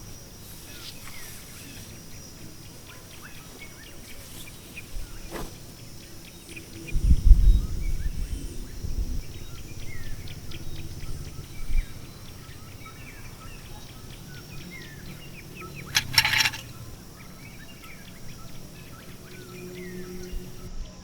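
Many small birds chirping over a steady high-pitched whine. About seven seconds in, gusts of wind buffet the microphone with a low rumble for several seconds, and a short sharp rustle sounds about sixteen seconds in.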